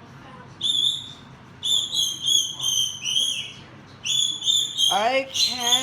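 A bird calling in runs of short, high, repeated whistled notes, a single one about half a second in and then groups of several. Near the end a lower, drawn-out voice-like sound comes in under the calls.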